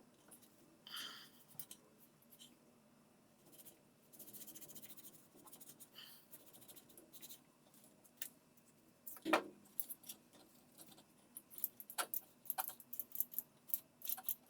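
Scattered light clicks and taps of parts and tools being handled during washing-machine reassembly, with one louder knock about nine seconds in and a quick run of clicks near the end.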